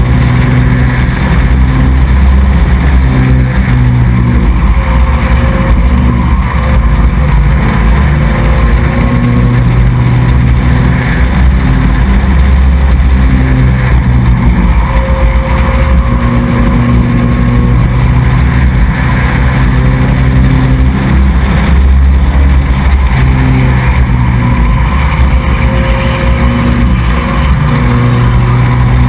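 Small race truck's engine running hard around the track, heard close up on board, loud and continuous, its pitch rising and falling again and again as the throttle is eased and reapplied.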